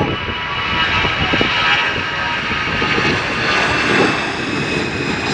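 Jet airliner engines running, a steady broad rush with a high whine over it.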